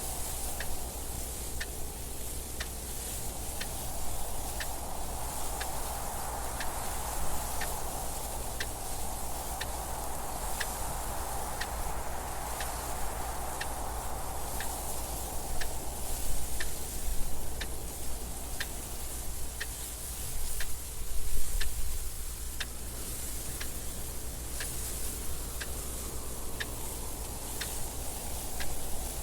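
Clock ticking steadily about once a second, over wind that rises and falls in slow gusts.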